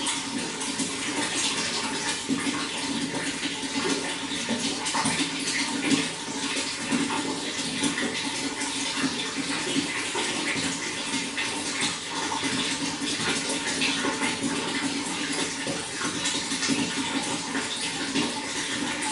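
Running water flowing steadily: an even, unbroken rush.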